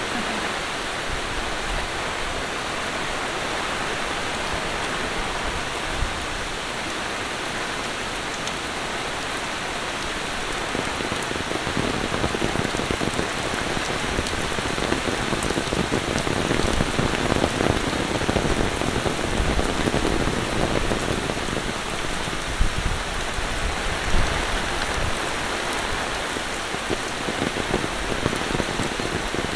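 Monsoon rain falling steadily, growing a little fuller in the middle, with two sharp taps near the end.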